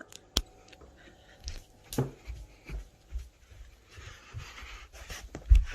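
A pet breathing close to the microphone, with a few sharp clicks and low thumps; a loud thump comes near the end.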